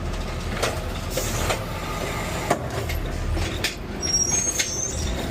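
Garbage truck running, heard from inside the cab: a steady low engine drone with scattered knocks and rattles. A brief high-pitched squeal comes about four seconds in.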